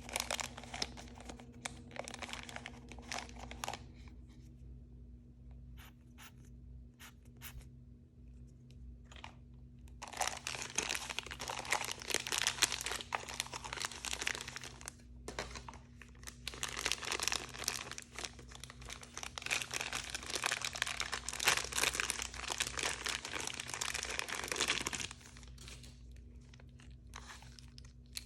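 Plastic packaging crinkled and torn open by hand: a short spell of crinkling at the start, a few scattered clicks, then long continuous crinkling and tearing from about ten seconds in until a few seconds before the end. A faint steady low hum lies underneath.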